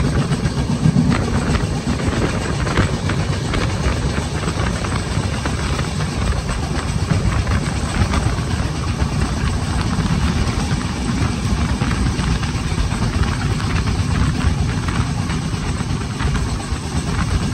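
Express passenger train running at speed, heard from inside the coach: a steady rumble of wheels on rails, with rattling clicks running all through it.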